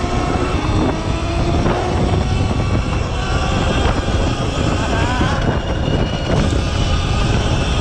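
Sur-Ron Light Bee X electric dirt bike being ridden: its motor whine rises and falls in pitch with speed, under heavy wind rumble on the microphone.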